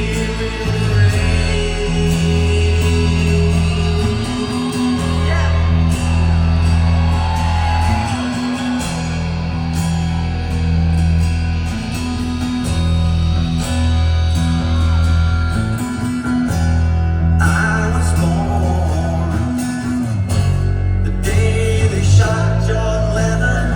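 Rock band playing live, with heavy, sustained bass, guitars and a singing voice over them.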